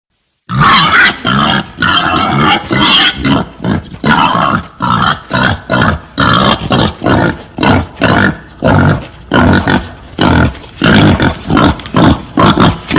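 Wild boar grunting and squealing in rapid, loud bursts, about two a second, starting about half a second in: a recorded boar mating call of the kind played as a hunting lure.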